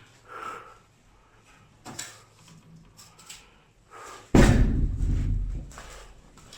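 A door slamming shut about four seconds in: one loud bang with a low boom that dies away over a second or so, after a few faint knocks.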